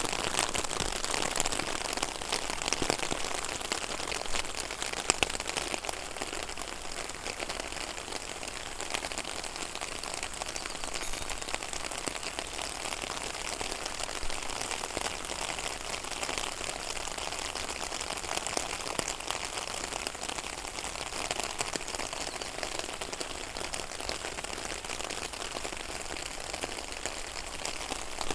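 Steady rain falling on the surface of a pond, a dense pattering of many small drops hitting water.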